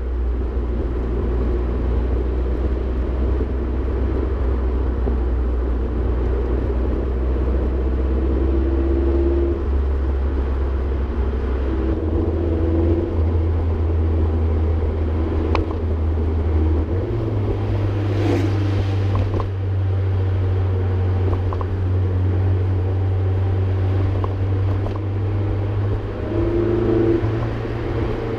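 Mazdaspeed 3's turbocharged four-cylinder and aftermarket exhaust droning steadily at cruise, heard inside the cabin. The low drone steps up in pitch a little before halfway and again a few seconds later. A brief whoosh comes about two-thirds of the way through.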